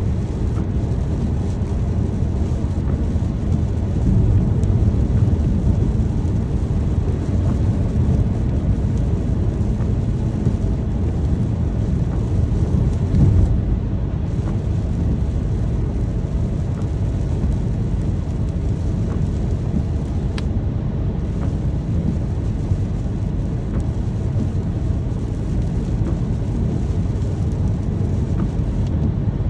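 Steady rain with a low rumble of distant thunder, swelling a few seconds in and again about 13 seconds in.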